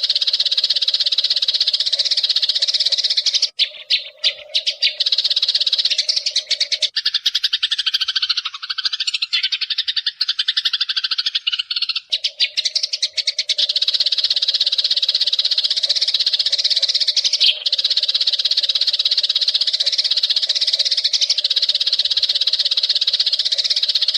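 Eurasian tree sparrows chirping in a dense, fast, continuous chatter. From about 7 to 12 seconds in, the chatter changes to lower, gliding calls.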